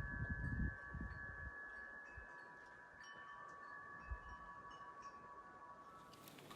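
Several chime tones ringing together and held steadily, stopping together near the end, with a few low thumps in the first second and a half.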